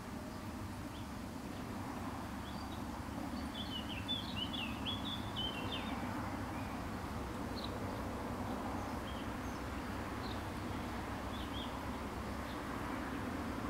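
Small birds chirping in quick twittering runs, busiest from about three to six seconds in, with scattered single chirps afterwards, over a steady low background rumble.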